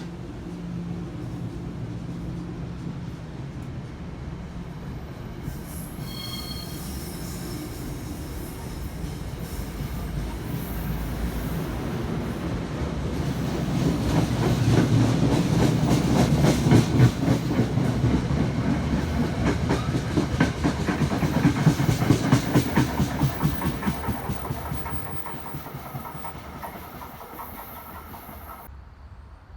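A passenger train passes by, its wheels clicking over the rail joints. The sound builds, peaks around the middle with dense clickety-clack, then fades away as it recedes.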